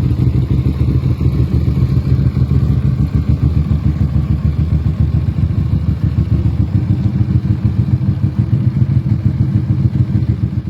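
Keeway Benda V252's 250cc V-twin engine idling steadily through a custom 2-in-1 exhaust, a deep rapid even pulsing.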